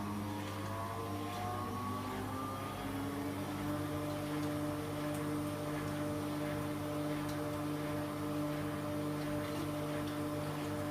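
Hoover Dynamic washing machine running its service cycle: a motor whine whose tones rise in pitch over the first few seconds, then hold steady as several level tones.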